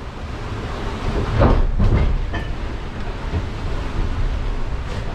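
Sailboat underway at sea: a steady rush of water and wind with a low rumble, and a couple of louder knocks about one and a half to two seconds in.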